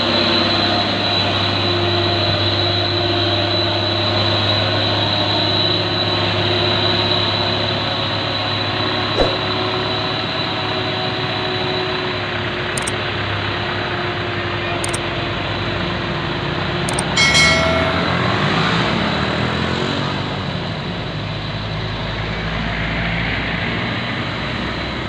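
Heavy diesel truck engine running steadily, with a few short clicks and a brief sharper noise about two-thirds of the way through.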